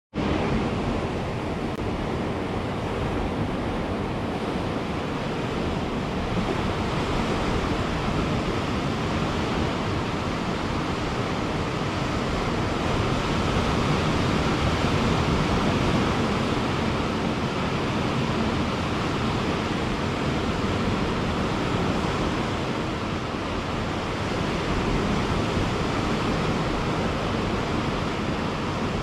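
Ocean surf breaking on a beach, a steady wash of noise that swells and eases slowly.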